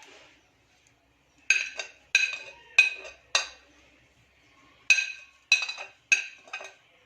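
A spoon clinking against a ringing bowl about ten times, in two quick runs of taps, as spices are knocked off it into the bowl.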